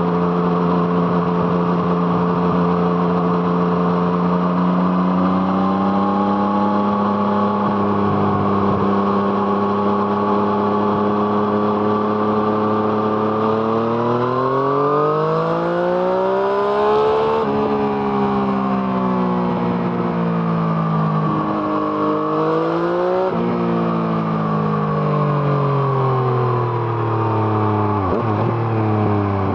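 Yamaha MT-09's three-cylinder engine through an Arrow Thunder exhaust, heard while riding. It holds a steady cruise, then the revs climb to an upshift about 17 seconds in, rise again briefly around 23 seconds, and fall steadily as the bike slows toward the end.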